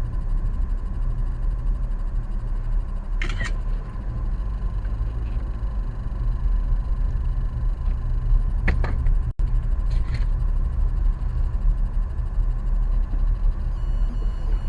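Steady low rumble of a car's engine and tyres, heard from inside the cabin while driving, with a few brief sharper sounds about three and nine seconds in.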